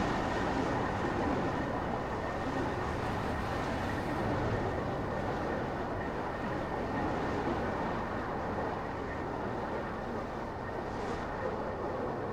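Car driving on city streets: steady tyre and engine road noise, easing slightly in loudness, with a faint thin whine riding on it.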